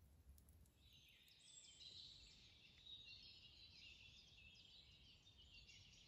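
Faint bird song, a rapid high twittering that starts about a second in, over near silence.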